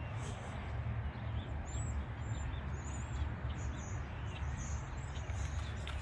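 Small birds chirping, a scatter of short, high calls, over a steady low rumble.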